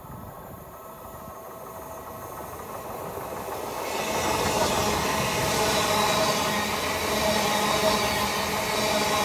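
Great Western Railway Class 802 IET passenger train approaching and passing close by. The rush of wheels on rail and air grows louder over the first four seconds, then holds steady as the carriages go past, with a steady hum running through it.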